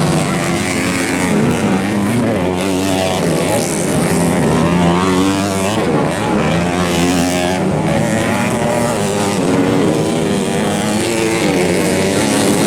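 Several off-road racing motorcycle engines revving, their pitches rising and falling and overlapping.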